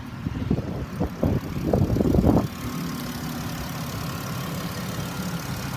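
A 2014 Dodge Grand Caravan's 3.6-litre V6 engine idling steadily, with a stretch of louder, irregular noise in the first half that then settles.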